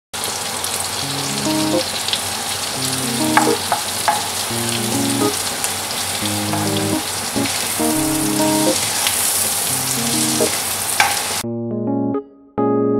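Green beans and minced garlic sizzling in hot oil in a pan, stirred with a spoon, with a few sharp ticks in the hiss. Soft keyboard music runs underneath, and about eleven seconds in the sizzle cuts off, leaving the electric-piano music alone.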